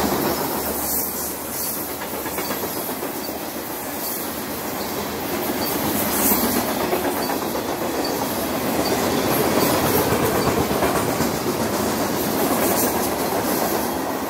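Covered hopper cars of a long freight train rolling past: the steady rumble of steel wheels on the rails, swelling and easing, with repeated clicks as the wheels pass over the rail joints.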